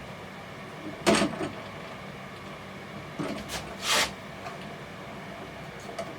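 A sharp knock, a couple of lighter knocks and a brief scrape, like something being handled and slid on a workbench.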